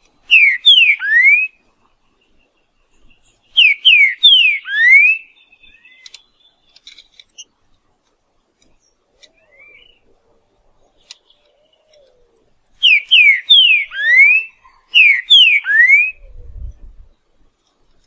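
Green-winged saltator (trinca-ferro) singing its 'boiadeiro' song: four loud phrases of clear whistles, each two or three quick falling notes ending on a rising one. One phrase comes at the start, one about three and a half seconds in, and two close together after a long pause.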